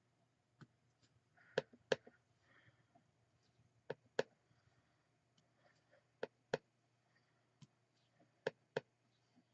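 Clear stamp on an acrylic block knocked down onto the ink pad and the card, in four pairs of sharp taps about two seconds apart.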